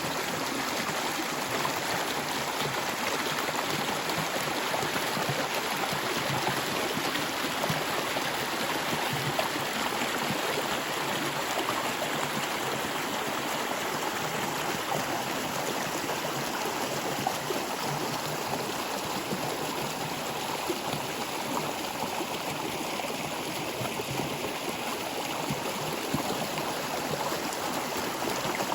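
Stream water flowing over stones in a steady, continuous rush.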